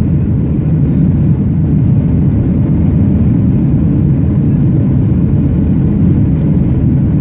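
Steady, loud low rumble of a Boeing 737-700's CFM56 jet engines and rushing air, heard inside the passenger cabin under power.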